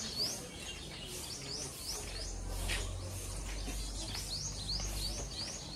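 Small birds chirping: runs of quick, rising chirps, several a second, over a low rumble that sets in about two seconds in.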